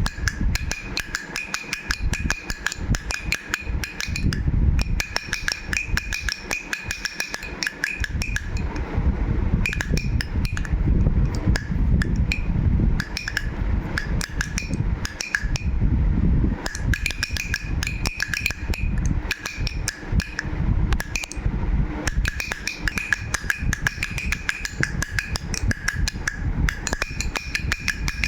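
Toy rattle shaken continuously: a dense run of rapid clicks with a faint high ringing that comes and goes.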